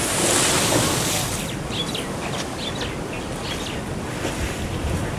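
Surf washing with wind buffeting the microphone, and a run of short, high bird chirps about two seconds in.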